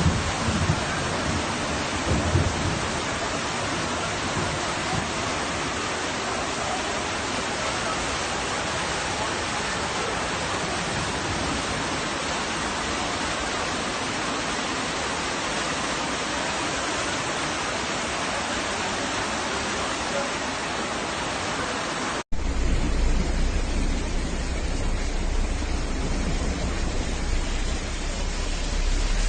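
Heavy downpour: a steady, dense hiss of rain and running water. After a cut about 22 seconds in, a second recording carries a strong low rumble under a softer hiss.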